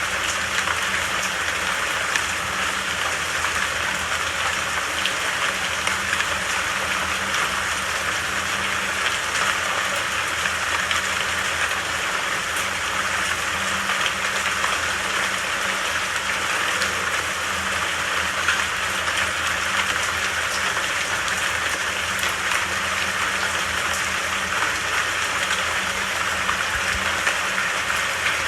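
Steady rainfall: an even hiss of rain with fine pattering drops and a faint low hum underneath.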